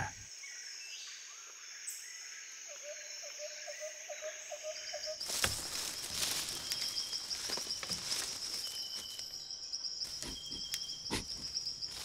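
Jungle ambience of insects trilling steadily at a high pitch. A short run of lower pulsed calls comes about three seconds in, and from about five seconds in a denser crackling noise joins a pulsing trill.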